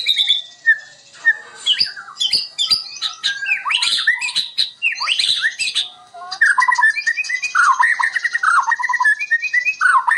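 White-rumped shama singing a fast, varied song of sweeping whistles, harsh notes and sharp clicks. About six seconds in, the phrases change to lower repeated notes.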